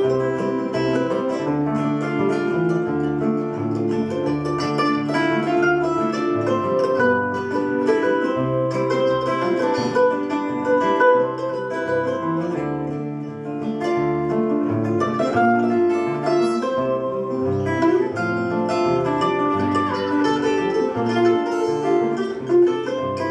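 Instrumental break in a live acoustic folk song: plucked acoustic string instruments, led by guitar, play the melody without singing.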